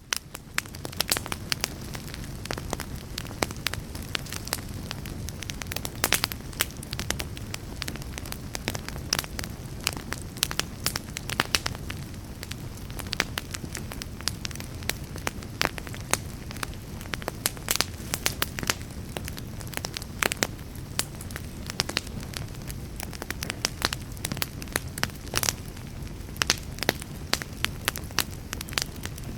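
Wood fire burning in a fireplace: a steady low rumble of flames with dense, irregular sharp crackles and pops of the burning logs.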